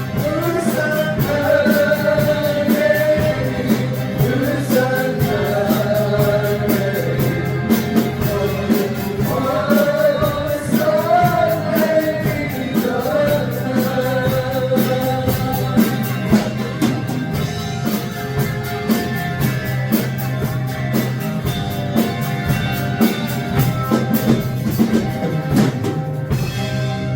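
A band playing a rock song: a singer over a drum kit and a steady bass note.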